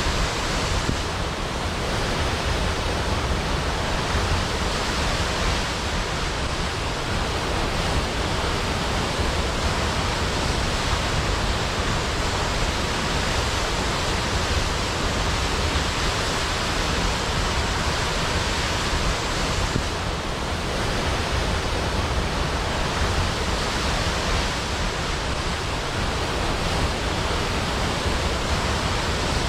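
A large waterfall pouring into a pool: a steady, dense rush of falling water with no breaks.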